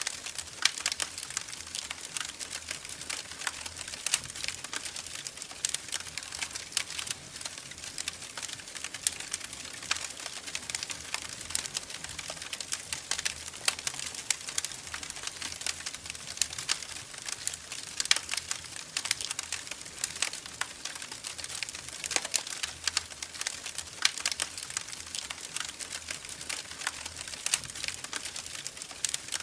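Wood fire in a fireplace crackling, with constant irregular small pops and snaps over a soft hiss.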